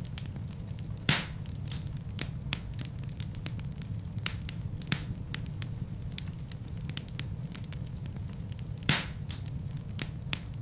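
Wood fire burning in a fireplace: a steady low rumble of flames with frequent sharp crackles, and two louder pops, about a second in and about nine seconds in.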